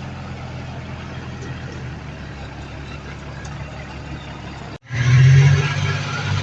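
Heavy diesel earthmoving machinery engine running steadily; a little under five seconds in the sound cuts off abruptly and comes back as a louder, harsher engine with more rattle.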